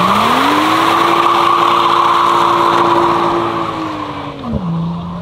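BMW 1 Series hot hatch's turbocharged straight-six revving up and holding high, steady revs while the rear tyres spin and smoke, with a loud hiss of tyre noise over the engine. The revs fall and drop sharply about four and a half seconds in, then settle lower.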